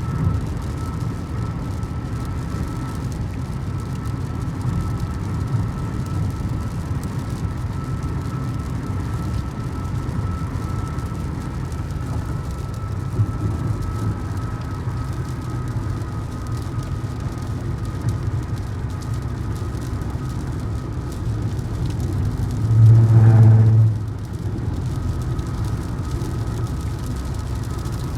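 Steady road and engine rumble inside a moving vehicle on the highway, with a faint steady whine above it. A little over twenty seconds in, a louder low buzzing tone sounds for about a second.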